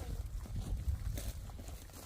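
Footsteps of walkers on a rough hiking trail: a string of irregular scuffs and knocks over a steady low rumble.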